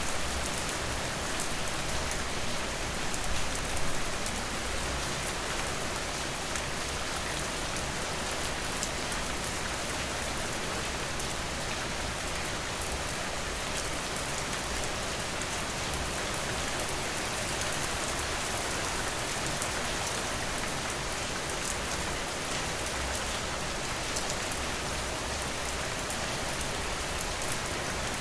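Steady rain falling, a dense even hiss with scattered drops ticking, and a couple of slightly louder patters about three and four seconds in.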